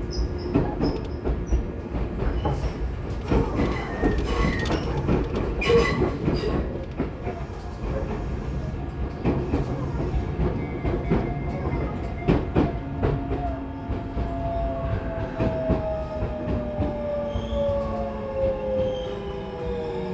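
Running noise inside a Tobu 20400-series motor car with Toyo GTO inverter control: wheels clacking over rail joints, then from about two-thirds of the way in the traction motors' whine falls steadily in pitch as the train brakes for the next station.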